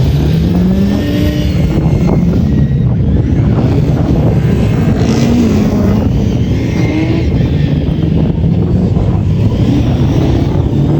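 Loud rally car engines revving and running hard on a stage. The engine pitch rises and falls several times as the cars accelerate and lift off.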